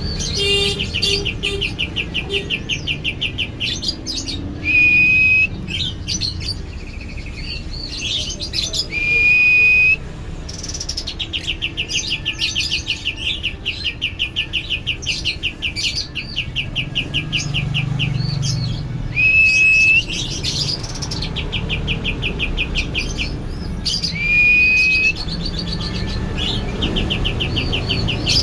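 A songbird singing the same phrase again and again: a short whistle that swoops up and holds, then a rapid trill of about ten notes a second lasting a second or two.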